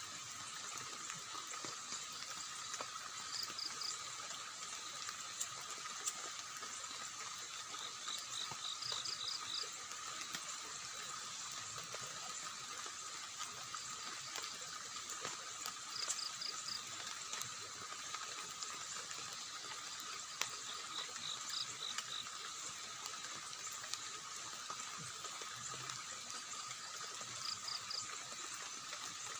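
Steady rush of water in a forest at night under an unbroken high insect drone. Every five or six seconds an animal calls in a short run of three to five quick, high notes.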